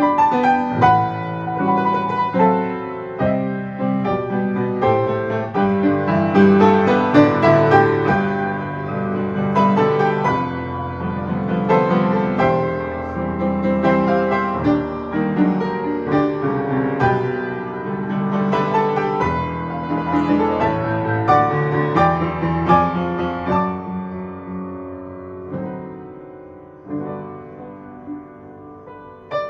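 Piano music, a flowing run of notes and chords, softening over the last few seconds.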